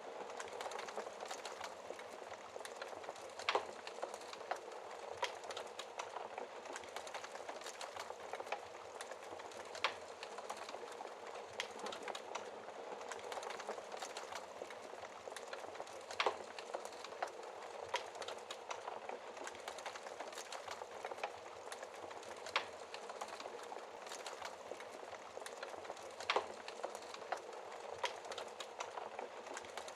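Wood fire crackling steadily in a fireplace, a dense run of small crackles with a sharper pop every few seconds.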